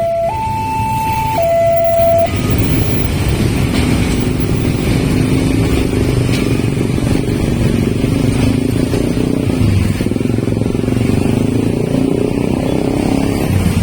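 A two-tone warning alarm, alternating high and low about once a second, stops about two seconds in. A CC 201 diesel-electric locomotive's engine then runs close by with a steady, loud rumble.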